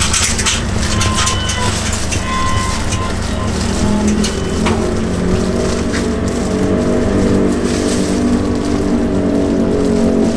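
An engine running steadily with a low rumble, its tone growing stronger and shifting slightly in pitch from about halfway, with a few light clicks and clatter in the first half.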